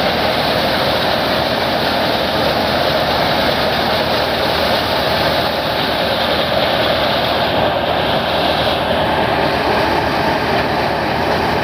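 Tractor-driven threshing machine running under full load, a loud, steady mechanical noise with no breaks.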